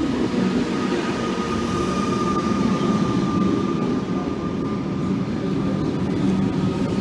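Train running at the railway station: a steady rumble with a thin, steady whine over it.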